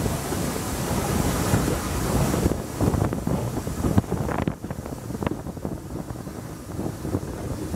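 Steam-hauled train running along the track with wind buffeting the microphone. There are a few sharp clacks of wheels over points around the middle, after which the wind hiss eases.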